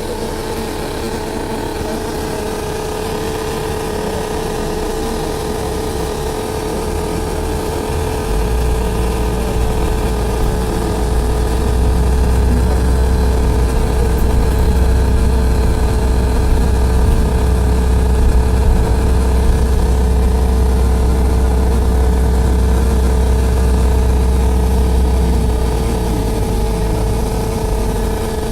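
Loud, nonstop noise on the upper deck of a double-decker bus: a steady mid-pitched tone over the bus's engine rumble. The rumble swells about eight seconds in and eases off near the end.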